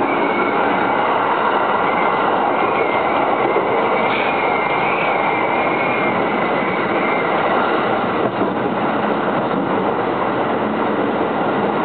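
Electric commuter train running along the line, heard from inside the passenger car as a steady rumble and rush of wheels on rails. A faint wavering high tone sounds over the first half.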